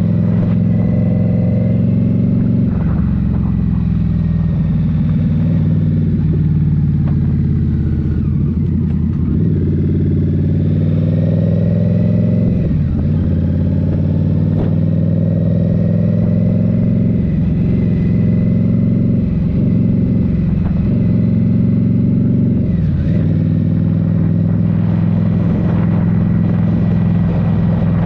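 Indian Scout Rogue's 69 cubic-inch V-twin with a Rinehart slip-on exhaust running steadily under way, its pitch shifting a little with the throttle.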